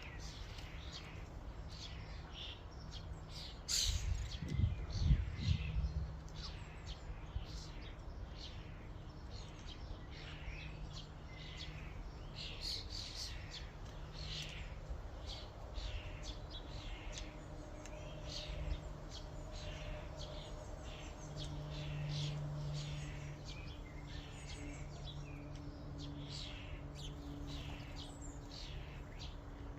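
A flock of common starlings calling at a feeding station: a continuous stream of short, high chirps and whistles, over a steady low hum. About four seconds in, a brief low rumble stands out as the loudest moment.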